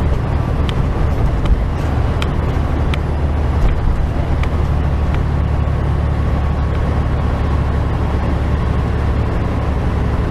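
Steady low engine and road rumble of a truck on the move. Light clicks come about every 0.7 s for the first five seconds or so.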